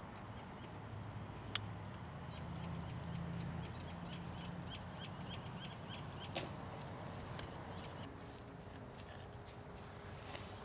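Outdoor ambience with a bird giving a quick series of short chirps, about three a second, over the first six seconds. A sharp click about a second and a half in and a softer knock around six seconds in, with a low hum in the background early on.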